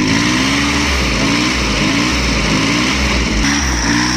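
Tractor diesel engine running hard, its pitch surging up and dipping again over and over as it labours to pull through mud.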